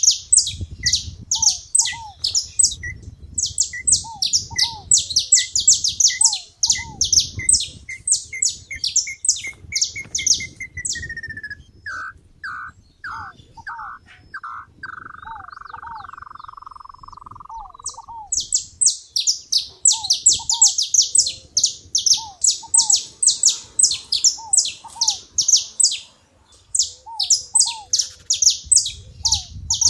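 Several songbirds singing at once: a dense run of rapid high chirps that drops out for several seconds in the middle, and under it a lower series of evenly spaced notes that speeds up and falls in pitch into a trill, with short down-slurred calls lower still.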